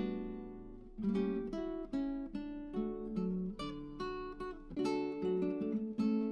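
Background music: acoustic guitar, plucked and strummed notes that ring and fade one after another.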